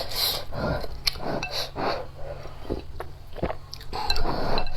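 Close-miked eating of spicy instant rice noodles in soup: wet chewing and slurping in short, uneven bursts, loudest about four seconds in.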